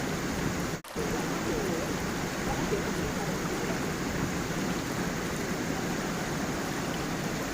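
Water of a small forest stream and waterfall rushing and splashing steadily over stones. The sound cuts out for a split second just under a second in, then carries on unchanged.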